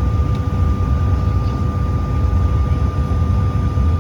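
Jet aircraft cabin noise with the engines running: a steady low rumble with a steady whine over it.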